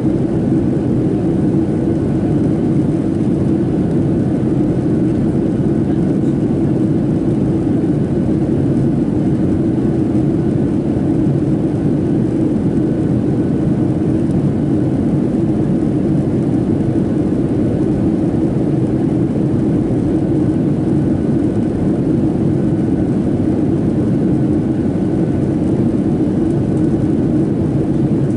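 Steady roar of a Boeing 737-700 cabin in flight: engine and airflow noise from its CFM56-7B turbofans, even and unchanging, with a faint steady whine above it.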